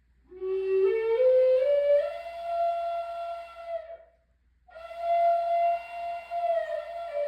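Flute playing a slow melody: a first phrase climbs in small steps to a held note, then after a short breath a second long note is held and steps down near the end.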